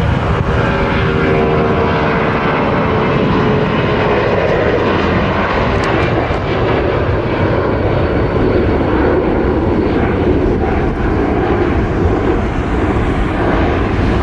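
Jet airliner engines running at high power: a steady rushing roar with a whining tone that drifts slightly lower over the first few seconds.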